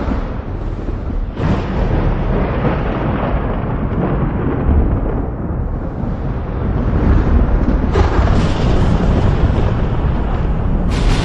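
Thunder rumbling over steady rain, the rumble swelling a few times, with a sharper crack near the end.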